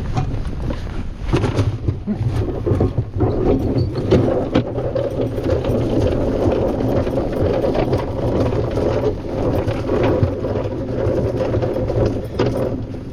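A boat's inboard engine running steadily, with a clatter of short knocks and rattles mostly in the first few seconds.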